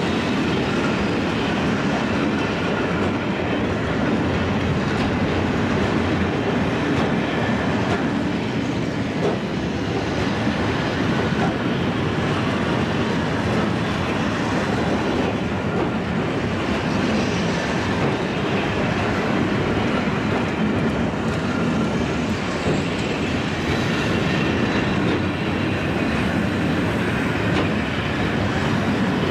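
Freight train of loaded container flat wagons rolling past close by: a steady, unbroken rolling noise and rattle of steel wheels on the rails and wagons.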